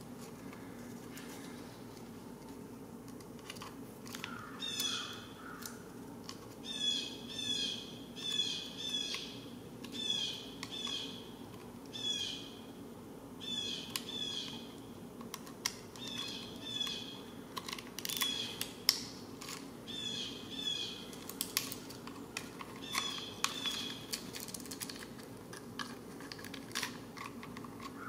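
A bird calling repeatedly, short downward-slurred chirps in runs of two to four, over a steady low hum. Light clicks of a screwdriver working at the plastic actuator come in now and then, more of them in the second half.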